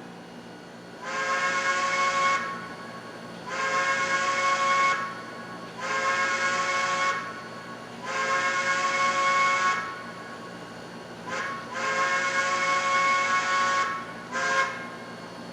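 Chime steam whistle of an HO-scale model steam locomotive's sound system blowing a chord of several tones with a hiss of steam. It sounds four long blasts, then a short, a long and a short blast near the end, over a steady low hum.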